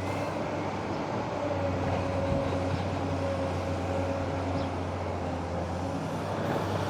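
Heavy diesel engine of construction machinery running steadily at the dig site: a low, even hum with a faint steady whine above it.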